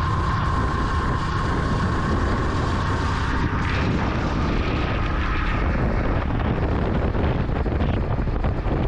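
Vintage Yamaha motorcycle riding along, its engine running under wind and road noise. A steady whine steps up slightly in pitch about a third of the way in and fades out past the middle.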